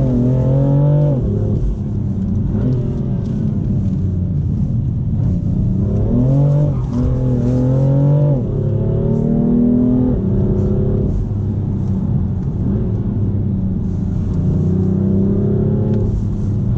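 BMW M4 Competition's twin-turbo 3.0-litre inline-six heard from inside the cabin under acceleration, its pitch climbing and dropping sharply at an upshift about a second in and again around eight seconds in, then pulling steadily at cruising revs.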